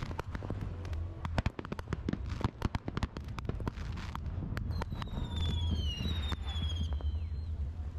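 Fireworks display: a rapid string of sharp bangs and crackling from shell bursts, over a steady low rumble. Past the middle, high whistles glide down in pitch for a few seconds.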